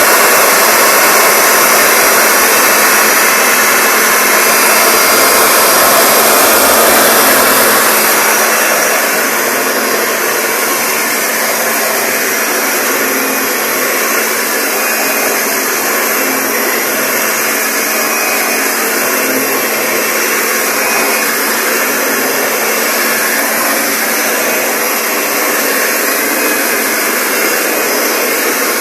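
Kirby upright vacuum cleaner running steadily while pushed over carpet, a loud steady motor and airflow noise with a hum underneath, easing slightly in level after about eight seconds.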